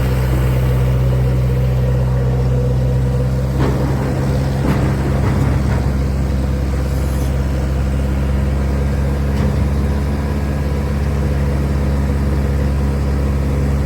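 Heavy vehicle's diesel engine running steadily at an even speed, a deep constant drone with a couple of faint knocks about four to five seconds in.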